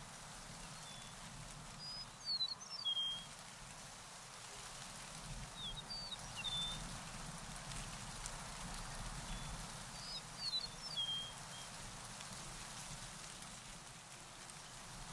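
A songbird giving three short bursts of quick high chirps, about four seconds apart, over a steady outdoor hiss.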